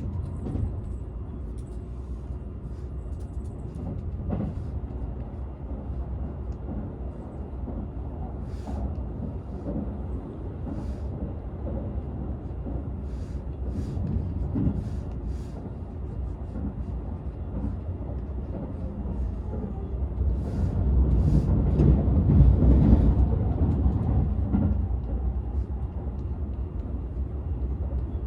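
Running noise inside a Seibu 001 series Laview limited express car, an unpowered driving trailer (Tc) with no motor sound: a steady low rumble of wheels on rail with scattered faint clicks, swelling louder for a few seconds about twenty seconds in.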